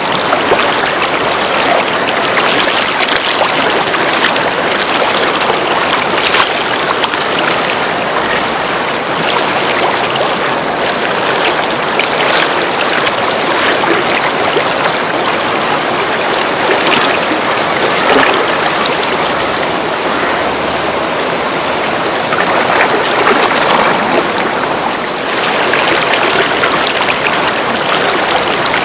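The Kunhar River at Naran running, a loud, steady rush of water. A faint short high chirp repeats about every second and a half over it.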